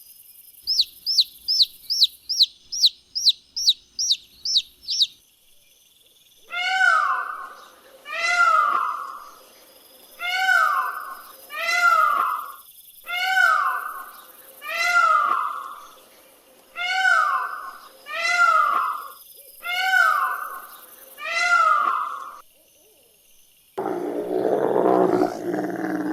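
A series of animal calls. First comes a quick run of about a dozen high chirps. Then a call falling in pitch repeats ten times at an even pace, and near the end a rough, lower, roar-like call begins.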